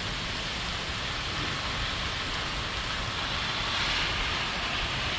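Heavy rain pouring down in a steady, dense hiss, swelling a little near the end.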